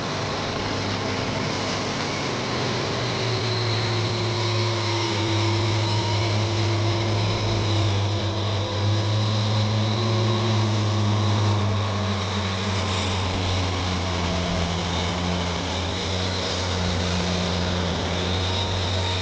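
An engine running steadily: a constant low hum over a wide rushing noise.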